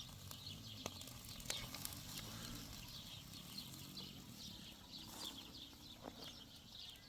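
Small birds chirping continuously and faintly, many short high chirps overlapping, with a few light knocks and a faint low pitched sound in the middle.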